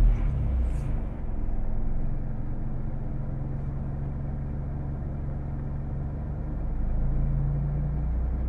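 2000 Mitsubishi Eclipse engine running steadily at idle, settling down from a rev at the start, with a brief small rise in revs about seven seconds in. This is the engine sound the owner presents as a bad one, with no fault named.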